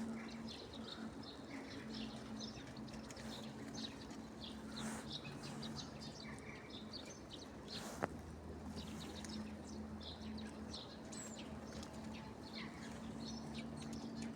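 Tits and other small songbirds chirping in many short, high calls. A steady low hum runs underneath, and there is one sharp click about eight seconds in.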